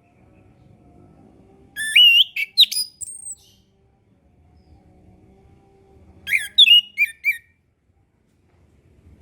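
Chestnut-capped thrush (anis kembang) singing two short phrases a few seconds apart, each a quick run of rising and falling whistled notes mixed with rapid high chips.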